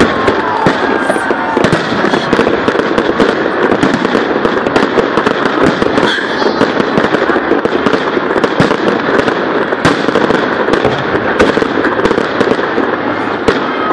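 Fireworks display: a continuous dense crackle of many rapid pops and bangs.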